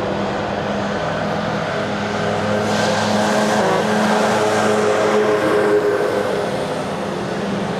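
Boeing 737-800's CFM56-7B turbofan jet engines at takeoff power: a steady, loud roar with whining tones, and a brief rise in hiss about three seconds in.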